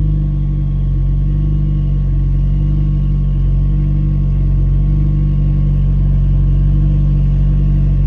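Nissan 240SX's turbocharged KA24DE four-cylinder engine running at a steady speed while the car cruises, its drone holding an even pitch.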